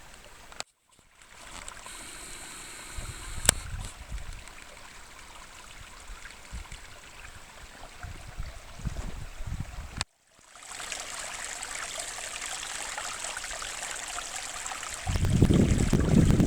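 Small desert brook, running with recent rainwater, babbling steadily over rocks. The sound cuts out briefly twice. Near the end, wind buffets the microphone with a low rumble.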